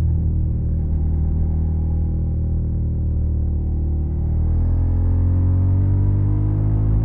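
Suzuki SV650's V-twin engine through a Yoshimura Alpha carbon exhaust, running at fairly steady revs, then rising in pitch from about halfway through as it accelerates.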